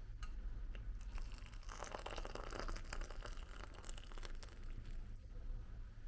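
Close crinkling and rustling handling noise made up of many small crackles and clicks, busiest about one to four seconds in, over a low steady hum.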